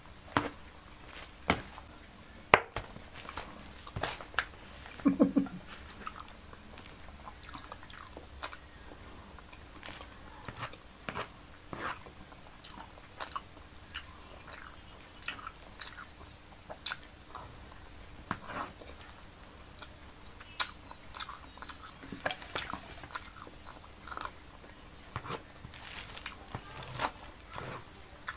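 Close-up mukbang eating sounds: a person chewing rice and canned sardines and tuna, with irregular wet mouth clicks and smacks and the spoon scraping in the tray.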